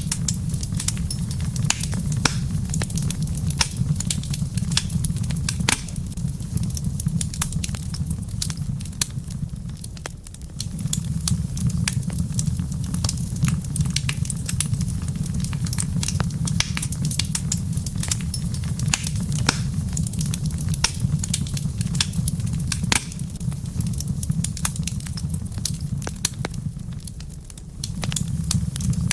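Wood fire in a fireplace crackling, with frequent sharp pops and snaps over a steady low rumble of the flames. The rumble drops away briefly about a third of the way in and again near the end.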